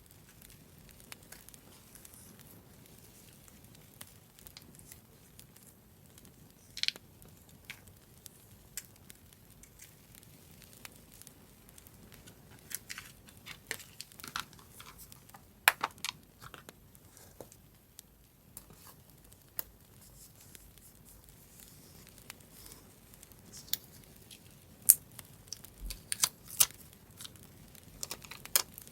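Paper being handled for a scrapbook journal: intermittent tearing and crinkling with scattered sharp clicks and crackles over a faint steady hiss, busiest around the middle and near the end.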